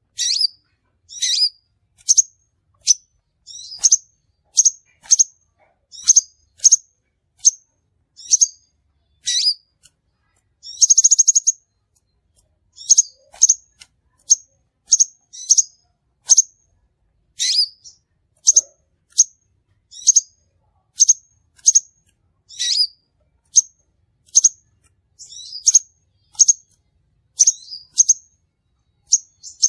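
Crimson sunbird (sepah raja) calling: short, sharp, high chirps about one a second, some in quick pairs. There is one buzzy trill of just over a second about eleven seconds in.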